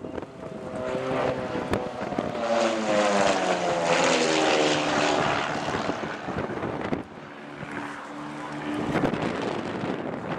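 Van's RV-8 propeller aircraft flying past. The engine-and-propeller note swells to its loudest about four seconds in and drops in pitch as the aircraft goes by. It then falls back to a lower, steadier drone.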